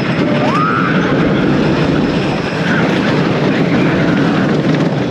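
Wooden roller coaster train running fast along its track, a steady loud roar of track rumble and wind. A rider gives a short rising yell about half a second in.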